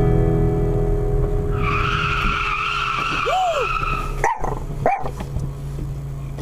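Car tyres squealing in a skid for about two and a half seconds, over the steady hum of a running vehicle.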